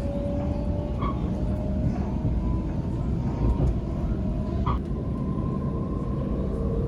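Sydney suburban electric train running, heard from on board: a steady low rumble of the wheels on the track with an electric motor whine slowly rising in pitch. Two short squeaks come through, about a second in and again near five seconds.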